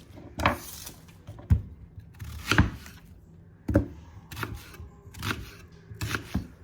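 Irregular knocks and short rustles of onion slices and raw chicken being handled and tucked into a roasting pan.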